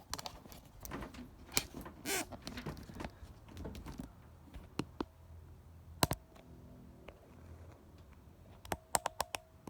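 Handling noise: scattered clicks and knocks, with a sharp double knock about six seconds in and a quick run of clicks near the end.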